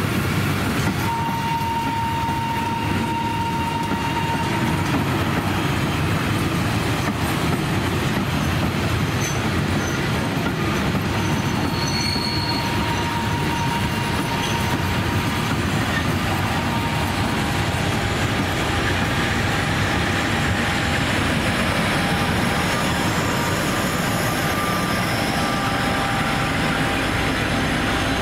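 Vintage passenger coaches rolling slowly past on the rails, a continuous steady rumble of wheels on track with thin, drawn-out wheel squeals now and then.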